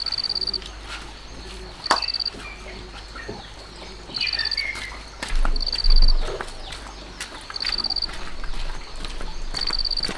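An insect, cricket-like, chirping in short high buzzy trills that repeat about every two seconds. Scattered light clicks and knocks sound between the trills, and a dull thump comes about six seconds in.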